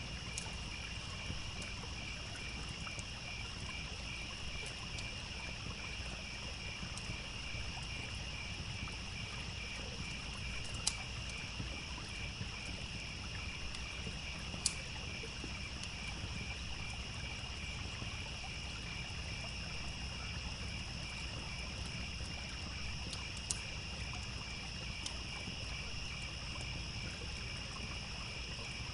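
Crickets chirping in an even, regular pulse, with a steady higher insect drone, over a low continuous rush of flowing water. A few sharp pops of a crackling wood fire stand out, the loudest about 11, 15 and 23 seconds in.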